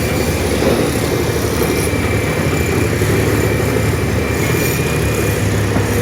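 Heavy diesel dump truck engine running steadily, a loud low rumble.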